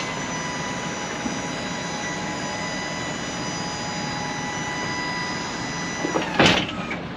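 Electric hydraulic pump of a Tommy Gate liftgate running with a steady whine as the gate is powered, cutting off about six seconds in. A loud knock follows just after.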